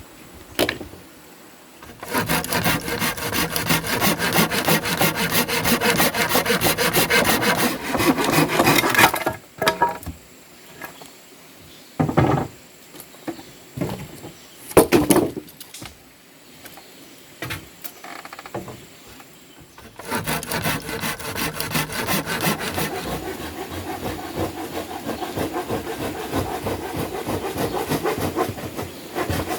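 Wood being cut with a hand saw in two long spells of rapid, even strokes, one a couple of seconds in and one from about two-thirds of the way through. Between them are a few separate knocks of wood.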